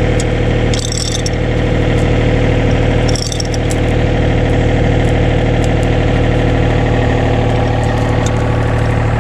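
Excavator's diesel engine running steadily, with two short bursts of hiss about a second and three seconds in.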